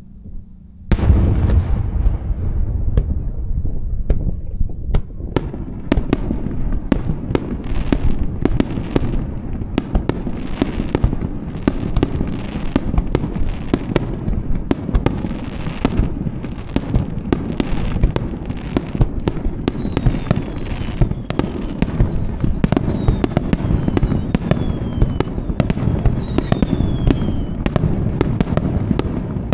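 Fireworks display: a heavy boom about a second in, then a dense, unbroken barrage of bangs and crackling shells. Several falling whistles sound in the second half.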